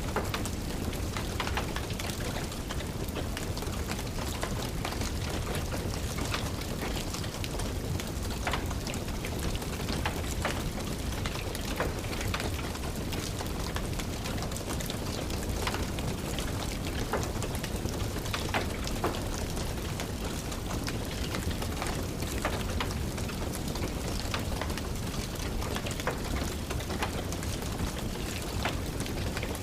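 Steady rain with a wood fire crackling in a fireplace: a constant hiss and low rumble, dotted with frequent sharp pops and snaps.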